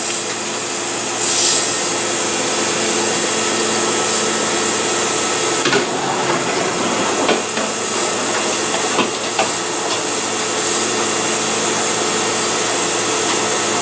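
Steady hum and hiss of a stationary electric railcar's onboard equipment, with a few light knocks.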